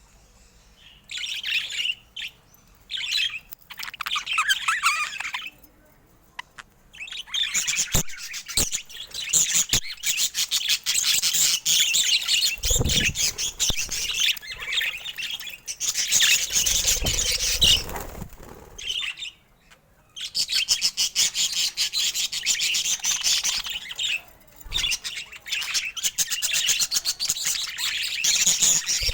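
Budgerigars chirping and chattering in bursts of rapid, high warbling, with short pauses between bursts. A few soft low thumps come in the middle.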